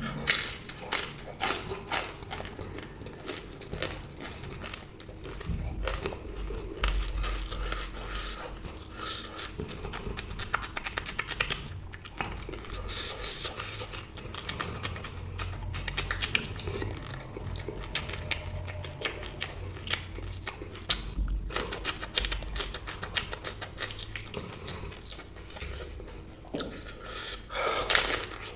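Close-up eating sounds: biting and chewing samosa and green chillies, a long run of quick crunches and crackles.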